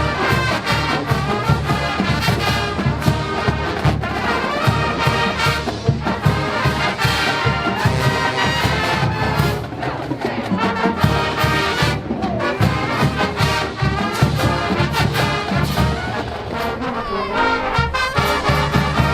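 College marching band playing, trombones and trumpets with drums keeping a steady beat.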